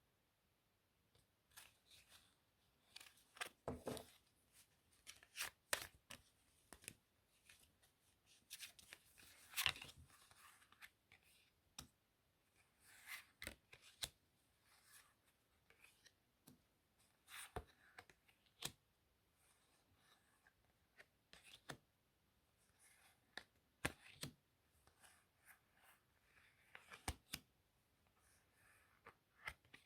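Playing cards handled close to the microphone: quiet, irregular clicks, taps and brief rustles of cards, with short pauses between them.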